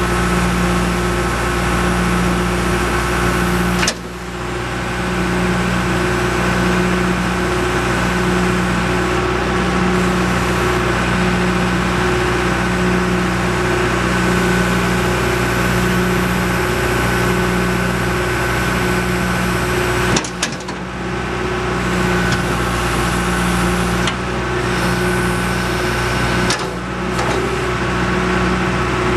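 John Deere 310G backhoe loader's diesel engine running steadily, with a low pulse repeating about every second and a half. The sound breaks off suddenly and picks up again a few times.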